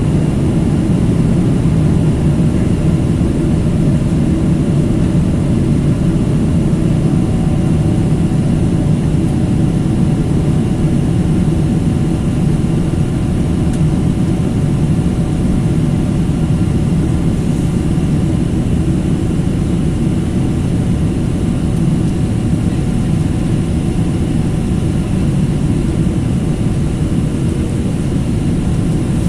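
Steady drone of jet engines and rushing air heard from inside an airliner cabin, low and even throughout.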